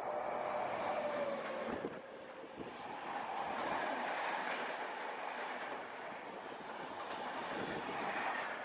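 Express passenger train running at speed: a steady rush of wheels on rail, with a few faint clicks from the wheels.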